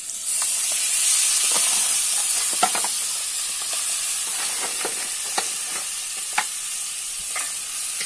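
Crab pieces frying in hot curried oil in a pot over charcoal: a loud sizzle that jumps up as the crab drops in, just after the start, and keeps going with scattered sharp pops.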